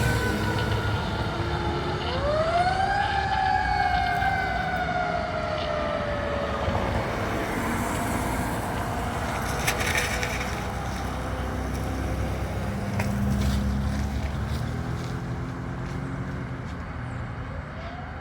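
Fire truck siren wailing: it winds up sharply about two seconds in, falls slowly over the next few seconds, and winds up again near the end. A heavy truck engine rumbles underneath.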